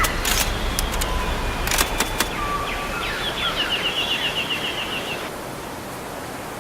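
Birds chirping over a steady hiss like running water or wind, with a few sharp clicks in the first two seconds. About two and a half seconds in, a bird gives a quick run of short falling chirps that lasts a couple of seconds, and then only the hiss is left.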